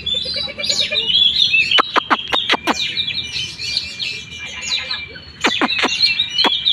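Oriental magpie-robin (kacer) singing a busy, varied song of chirps and warbles. Two quick runs of sharp falling notes come about two seconds in and again near the end.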